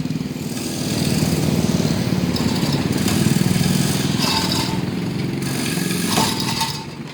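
A vehicle engine running at low revs as the vehicle is manoeuvred in reverse, swelling about a second in and easing off near the end.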